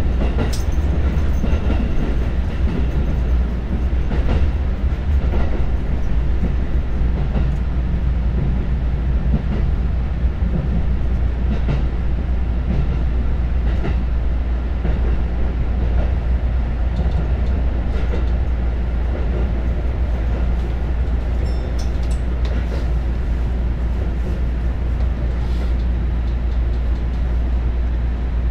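Electric commuter train running, heard from inside the carriage: a steady low rumble with scattered clicks from the wheels on the track.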